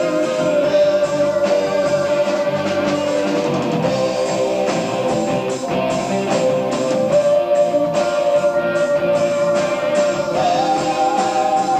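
Live progressive rock band playing, heard on an amateur tape recording: electric guitar, bass, drums and keyboards, with a melody line held in long notes that steps up in pitch near the end.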